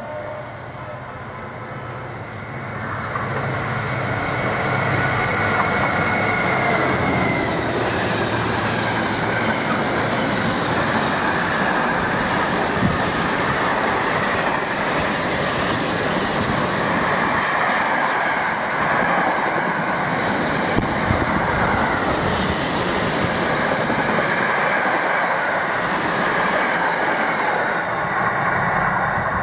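Intermodal container freight train passing at speed. A Class 66 diesel locomotive's engine hums low for the first several seconds. Then a long rake of container flat wagons clatters and rumbles over the rail joints, with some wheel squeal.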